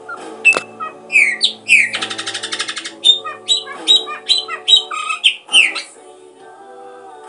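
A small bird singing quick, sharply sloping chirps with a fast trill in the middle, over steady background music.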